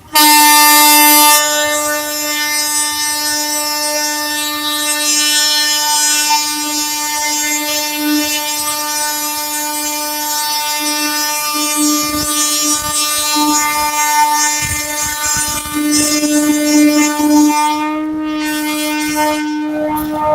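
Indian Railways WAP-4 electric locomotive's horn sounded in one long, loud, unbroken blast at a steady pitch as the train approaches a level crossing, with train running noise beneath it.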